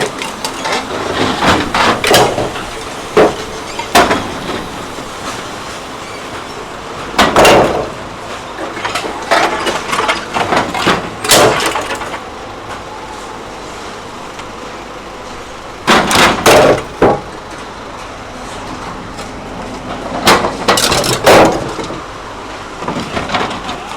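Scrap metal clanking and crashing in loud, irregular impacts a few seconds apart, over the steady noise of a running engine.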